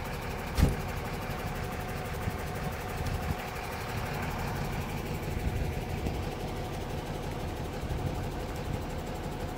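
Car engine running steadily at low revs, with one sharp thump less than a second in.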